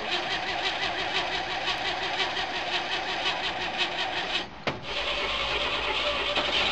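A 1949 Chevrolet half-ton pickup's Stovebolt inline-six being cranked by its floor-button starter, a steady rhythmic churn. The cranking breaks off briefly about four and a half seconds in, then starts again a little louder. The engine is long dormant, about 25 years since it last ran, and is cranking without yet running.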